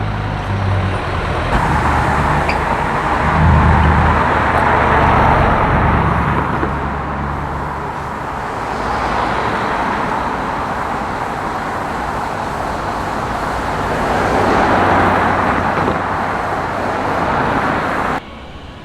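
Street traffic: passing vehicles' engines and tyres, a steady rush that swells twice as vehicles go by, then cuts off abruptly near the end.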